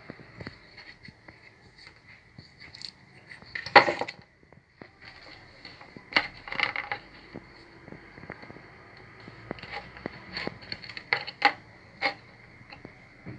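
Small metal tools and parts being handled on a workbench: scattered clicks and light metallic clatter, the loudest about four seconds in, over a faint steady high-pitched whine.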